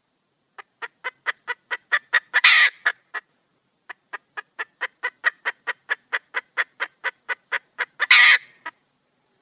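Junglefowl hen calling: a run of short, rapid clucks, about four a second, rising to a loud harsh squawk about two and a half seconds in. After a brief pause comes a second, longer run of clucks that ends in another loud squawk.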